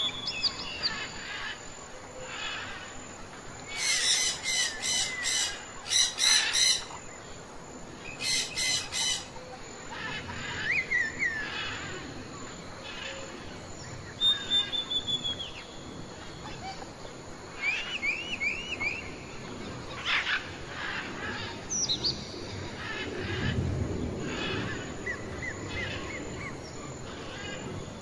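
Several small birds chirping and calling: loud, rapid trills a few seconds in, then scattered short chirps and runs of short arching whistled notes.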